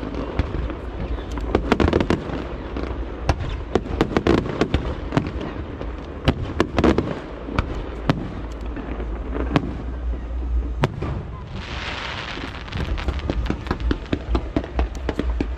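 Aerial fireworks bursting in quick succession: many sharp bangs and cracks, with a hissing, crackling shower for about a second and a half near twelve seconds in.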